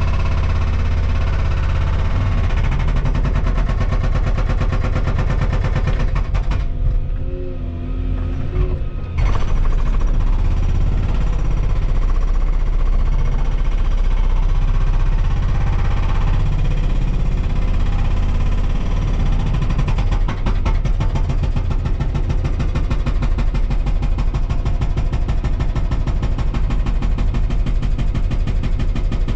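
Volvo 235EL excavator's diesel engine and hydraulics running steadily under load, with a rapid fine pulsing; the sound briefly thins out about seven to nine seconds in.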